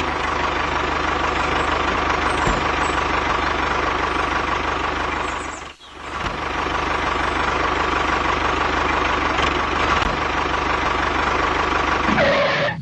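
Tractor engine running steadily with a rapid chugging pulse. The sound drops out for a moment about six seconds in, then carries on.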